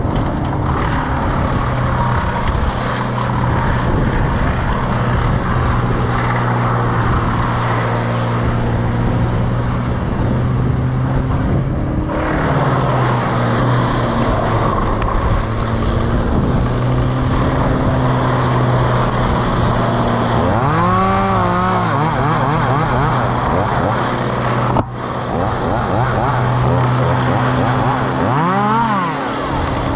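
Engine running steadily at a constant pitch, with two quick rises and falls in pitch, one about two-thirds of the way through and one near the end.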